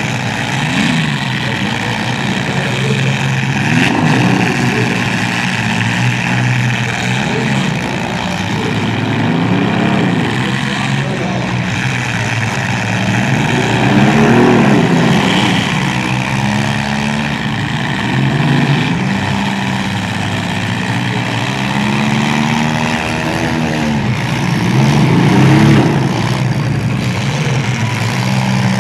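Engines of several compact demolition-derby cars revving up and falling back again and again, every couple of seconds, under hard acceleration as the cars push and ram.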